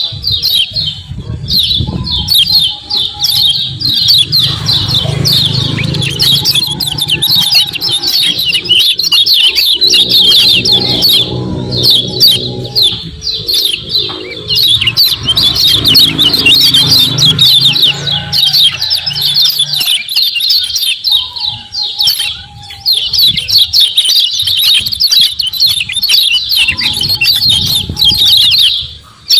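Kecial kuning (a yellow white-eye) calling in a fast, continuous "ciak-ciak" chatter of high chirps, with only brief pauses, over a low background rumble.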